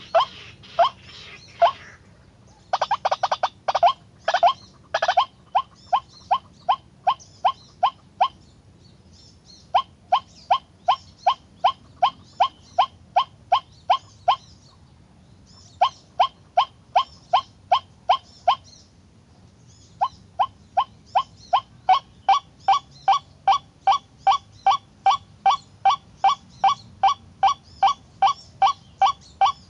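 White-breasted waterhen calling: a long series of loud, short, harsh notes, about two a second, in bouts broken by short pauses, with a denser, more jumbled burst of calls a few seconds in.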